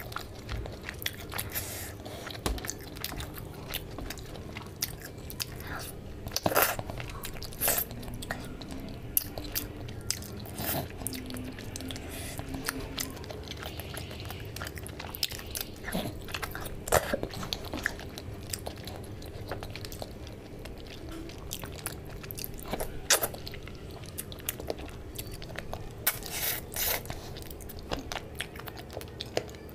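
Close-miked chewing of rice and fish curry, with wet mouth smacks and scattered sharp crunches and clicks.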